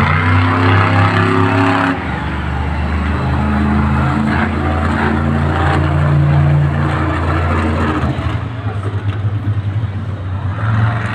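Monster truck engine running loud and revving, its pitch rising and falling, with a brief drop about two seconds in and an uneven, choppier sound near the end.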